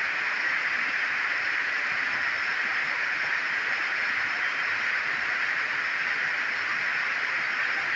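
Heavy tropical rain falling, a steady unbroken hiss.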